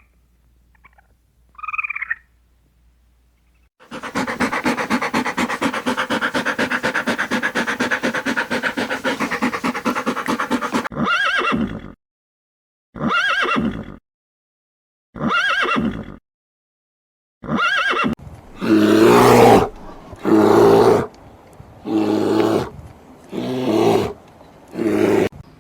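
A run of edited farm-animal calls: a long, rapidly pulsing call lasting about seven seconds, then four short rising-and-falling calls with sudden silences between them, then five loud calls about every second and a half.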